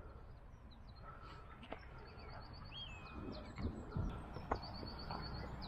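Birdsong carrying over an open field: two quick trilled runs of high chirps and a short falling whistle, over a low steady rumble, with a few soft knocks about halfway through.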